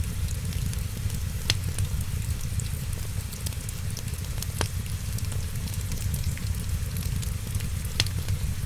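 Wood fire crackling, with fine ticks throughout and a few sharper pops, over a steady low rumble.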